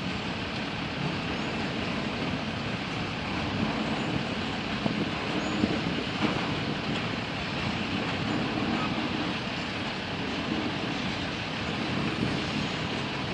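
Freight train cars rolling past on the rails: a steady, even running noise of wheels on track from covered hoppers and tank cars, with no locomotive in the picture.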